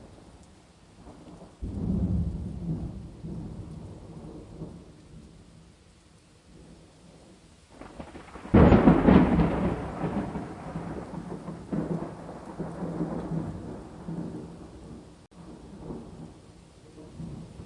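Thunder over rain: a low rumble starts about two seconds in and fades, then a louder, sharper clap comes about halfway through and rolls on in swells for several seconds, over a faint steady hiss of rain.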